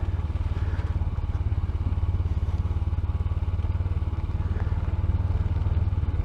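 Royal Enfield Himalayan's single-cylinder engine running steadily at road speed, heard from a microphone inside the rider's helmet as a low, even thrum.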